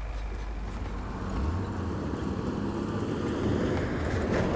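An old motor car's engine running low and growing steadily louder as it approaches.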